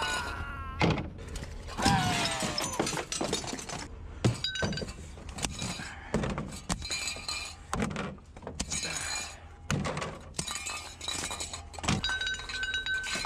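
Glass clinking and breaking, with a string of knocks and clatters as pieces of glass and junk are handled and dropped.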